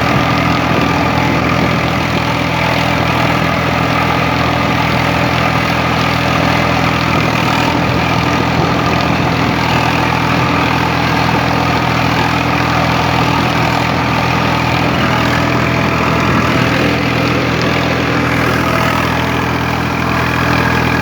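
Swaraj 855 tractor's three-cylinder diesel engine running at a steady speed, with no revving or change in pitch.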